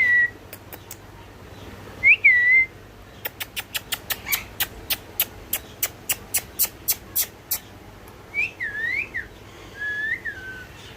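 Indian ringneck parrot chick giving short whistled calls that slide up and down. Between the calls comes a fast run of sharp clicks, about four or five a second.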